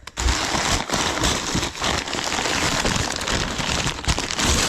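Dense, continuous crinkling and rustling of wrapping material as boxed items are rummaged through and unwrapped, full of small crackles.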